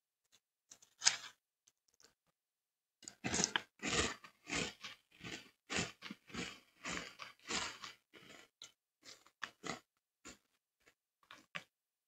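Close-up chewing of crunchy Cocoa Pebbles cereal, heard through a headset microphone at the mouth: a run of quick crunches about two a second starts about three seconds in, then thins out to faint mouth clicks near the end.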